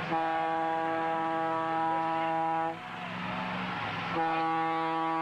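Two long, steady horn blasts at one pitch. The first lasts about two and a half seconds; the second starts about four seconds in.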